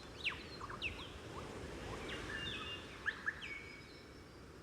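Birds chirping softly in a nature-sound background track: quick falling chirps and a few short held whistles, with two sharp chirps about three seconds in, over a low steady hiss.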